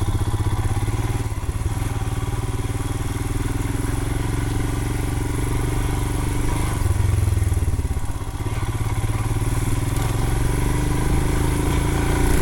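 2020 Royal Enfield Himalayan's single-cylinder engine running steadily as the motorcycle rides along; the engine swells briefly about seven seconds in and eases off just after eight seconds.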